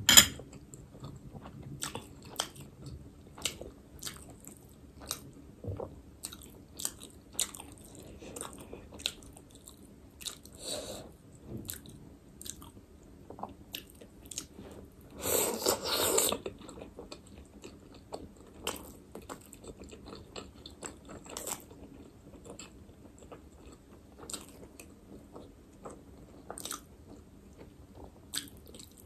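Close-miked eating of chicken momo dumplings: steady biting and wet chewing with many small mouth clicks, and one louder, longer noisy stretch about halfway through.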